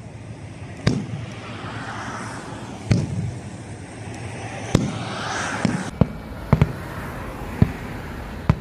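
Aerial firework shells bursting in a large display: single loud bangs about two seconds apart, coming quicker, under a second apart, from about six seconds in, over a steady hiss between the bursts.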